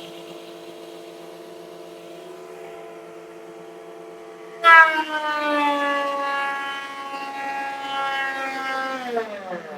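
A shop vacuum runs steadily; then, a little under halfway in, an electric planer is switched on with a sudden loud start, and its pitch slowly sags. Near the end both motors lose power and spin down together: the shared circuit is overloaded and the breaker trips.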